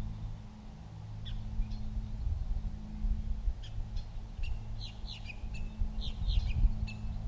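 Birds calling: a string of short, high chirps that come thicker in the second half, over a low steady hum.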